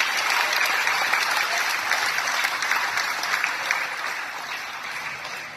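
Crowd applauding, with the clapping fading away near the end.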